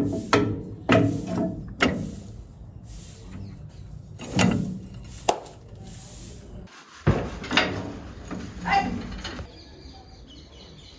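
Irregular knocks and clunks of things being handled and set down, about a dozen spread unevenly, with no engine running.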